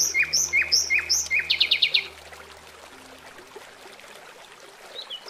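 Bird calls: a quick run of sharp, down-slurred whistled notes, then a short fast trill that ends about two seconds in, and one faint call near the end.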